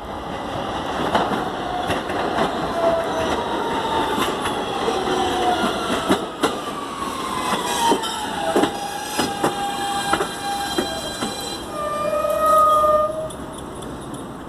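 New York City subway train running into the station and slowing, wheels clicking over rail joints while its motors whine down in pitch. A short steady tone sounds near the end as it comes to a stop.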